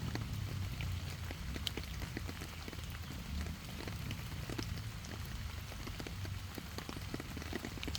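Outdoor ambience: many irregular light ticks and crackles over a steady low rumble.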